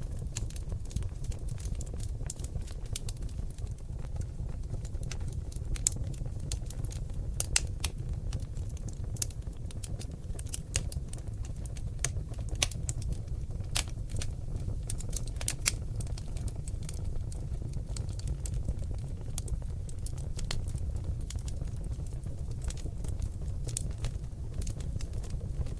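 Seasoned oak logs burning in a fireplace: irregular sharp crackles and pops, with a few louder snaps, over a steady low rumble of the flames.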